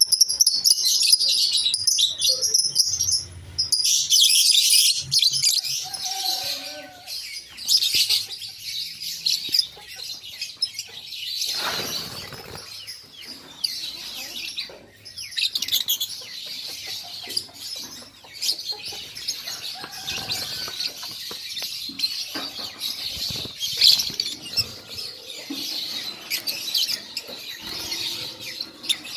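Lovebirds chattering: an unbroken stream of quick, high chirps and squeaks.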